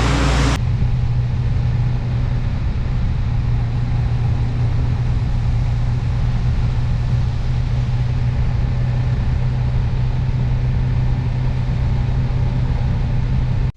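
Motorcycle engine running steadily under way, a constant low hum. A loud rushing hiss of wind and rain cuts off sharply about half a second in, leaving the engine hum.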